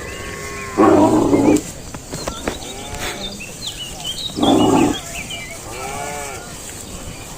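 Cattle mooing: two loud, short calls, the first about a second in and the second near the middle.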